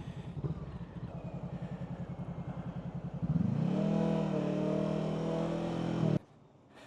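Motorcycle engine idling with a rapid, even pulse, then revving up about three seconds in and holding a steady higher note before cutting off abruptly near the end.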